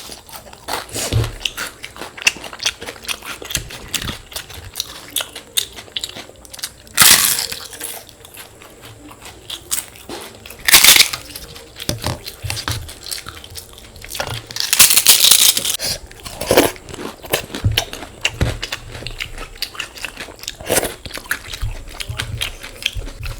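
Close-miked eating: steady chewing with crisp crunches of fried food, and three louder crunching bursts at about 7, 11 and 15 seconds.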